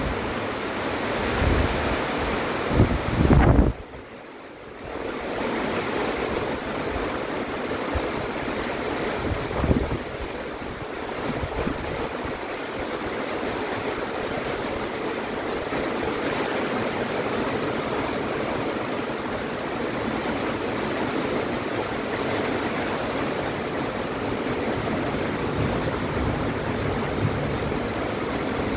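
Heavy rain pouring down in a steady downpour, with a few low thumps in the first few seconds and a sudden brief drop in the sound about four seconds in.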